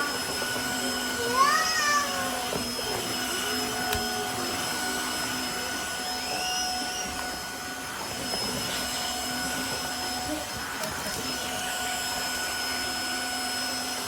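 Tineco iFLOOR 3 cordless wet-dry vacuum mop running steadily with a constant motor whine as it cleans the floor. Short rising-and-falling vocal calls sound over it about a second and a half in and again around six seconds in.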